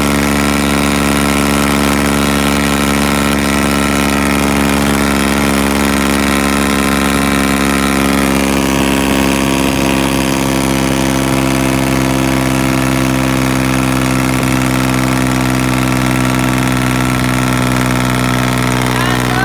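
Farmtrac tractor's diesel engine running at a steady speed, its pitch holding level.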